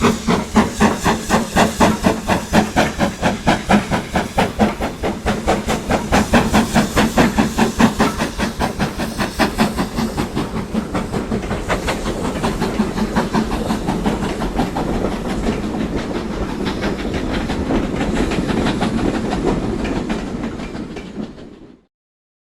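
Steam locomotive exhaust chuffing with steam hiss, starting at about three to four beats a second and quickening until the beats run together into a steady hiss. It cuts off suddenly near the end.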